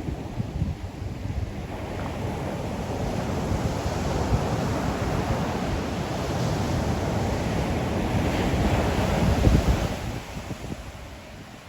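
Ocean surf breaking on the shore: a long swell of wave noise that builds to its loudest about nine seconds in, then falls away, with wind buffeting the microphone.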